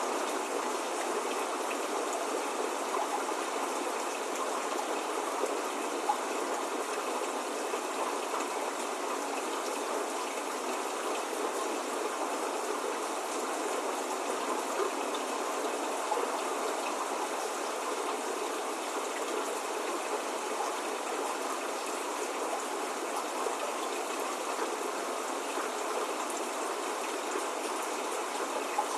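Steady rain with scattered individual drops ticking through it.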